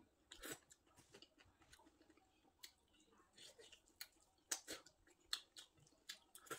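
Faint eating sounds of a person chewing, with scattered short soft clicks from the mouth and from eating by hand off a plate.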